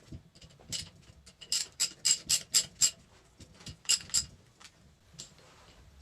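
Sharp metallic clicks of a hand tool on the bolts of a hydraulic control valve's bottom cover as they are fitted and tightened. A quick run of about five clicks comes first, then two more about a second later.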